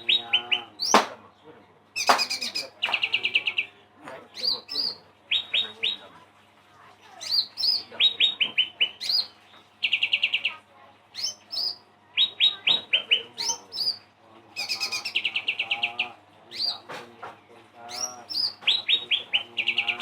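A songbird known locally in Pontianak as cak rante, singing in a lively run of phrases. Its phrases mix rapid chattering trills with sharp rising whistles, repeated every second or two.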